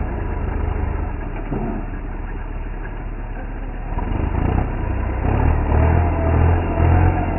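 A motor vehicle's engine running steadily, swelling louder from about four seconds in.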